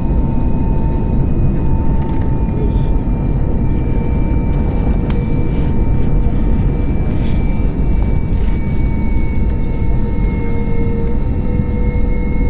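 Airliner engines running steadily, heard from inside the cabin after landing: a loud, even rumble with several steady whining tones over it.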